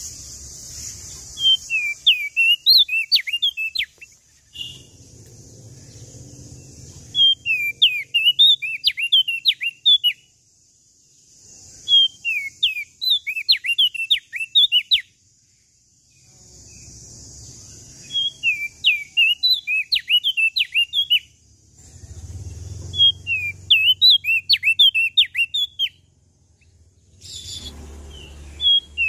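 A prenjak daun Lombok singing in bursts of quick, sharp, high chirping notes. Each phrase lasts two to three seconds and comes every few seconds, about six times.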